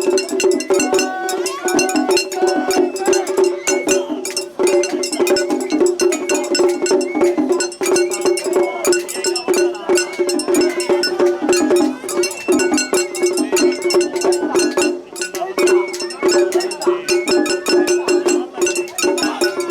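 Japanese festival hayashi music: a shinobue bamboo-flute melody over a fast, dense beat of drums and a small hand-struck gong.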